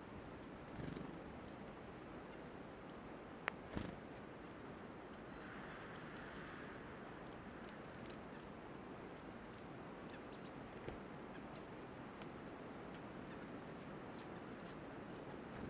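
Small songbirds giving many short, high-pitched chirps, scattered throughout, over faint outdoor background noise. Two soft knocks come about three and a half seconds in.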